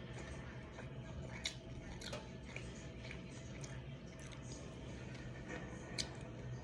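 Faint eating sounds: soft chewing and a few small clicks and taps as fried food is picked up and handled, the clearest about a second and a half, two seconds and six seconds in, over a low steady hum.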